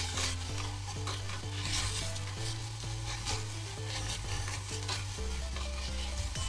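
Sliced onions and ground pork sizzling in oil in a stainless-steel pot, stirred with a silicone spatula in repeated strokes about once a second, each stroke swelling the sizzle. Soft background music with a slow bass line runs underneath.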